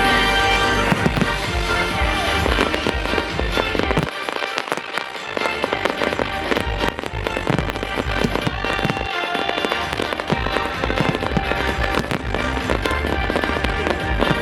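Fireworks display going off in rapid bangs and crackles over loud show soundtrack music with a heavy bass.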